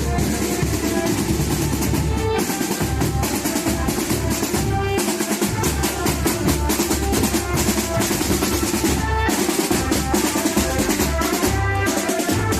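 Music with loud, dense drumming and percussion under short melodic notes.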